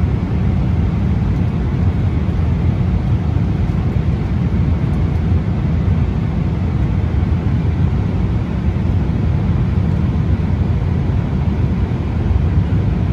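Steady low rumble inside the cabin of a Boeing 777-300 airliner, the engine and airflow noise that fills the economy cabin.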